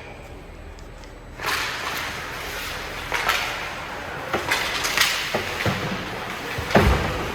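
Ice hockey play in a rink: skates scraping and sticks and puck clacking on the ice, starting about a second and a half in, with a heavy thud near the end.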